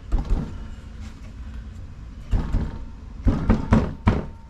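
Short clunks and knocks of a Tecumseh engine's sump cover being worked down onto the crankcase over its guide pins. There is one knock at the start, one about two and a half seconds in, and three close together between about three and four seconds.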